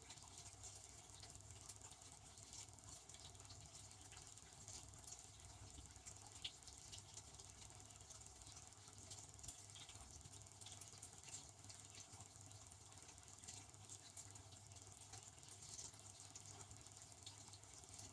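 Faint benchtop dishwasher running a cycle: a steady low hum with a light, irregular patter of water spraying inside.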